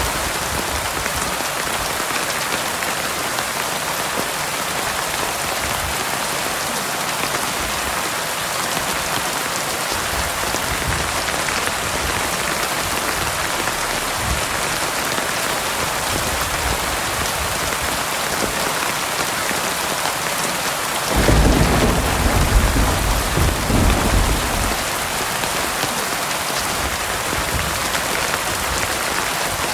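Heavy rain falling steadily, with a clap of thunder rumbling for a few seconds past the middle.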